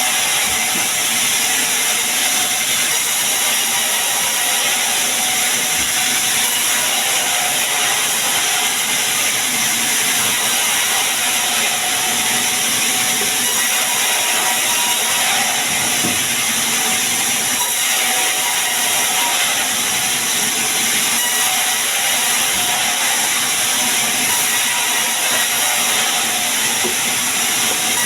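Sawmill saw cutting sengon wood, a loud, steady hissing rush of blade through timber.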